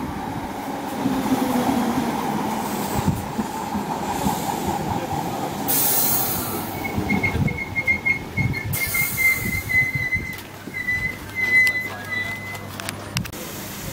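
London Overground electric multiple unit running slowly along the platform, its wheels and brakes giving a high, wavering squeal for several seconds from about halfway in as it slows. Strong wind buffets the microphone.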